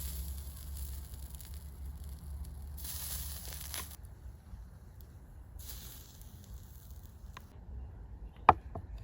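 Three hissing bursts of about a second each over a low steady rumble, with a sharp click near the end.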